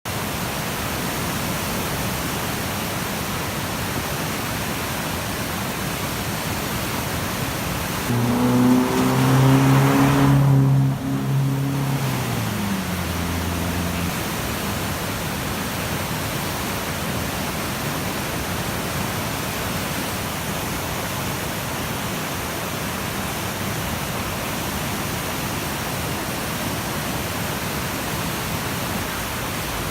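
Rakaia River in flood, a steady heavy rush of fast, high water. About eight seconds in, a vehicle engine passes, louder for a few seconds, then dropping in pitch and fading by about fourteen seconds.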